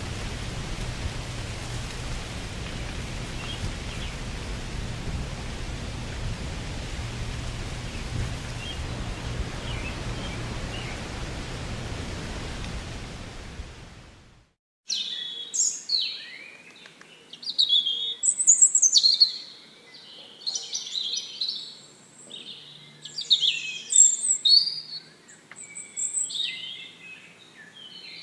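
A steady rushing of wind through leaves, with a few faint bird chirps, fades out about halfway. After a brief gap, birds chirp and sing in loud, repeated phrases.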